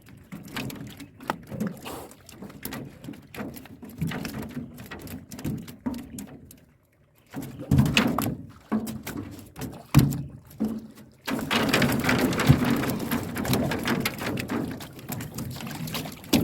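Irregular knocks and thuds of a fish trap being handled in a small boat, mixed with fish flapping and water splashing. A denser run of flapping, splashing and clatter starts about eleven seconds in.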